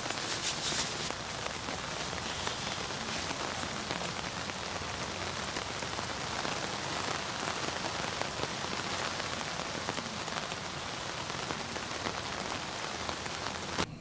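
Steady rain falling, a dense even hiss with scattered drop ticks; it cuts off suddenly near the end.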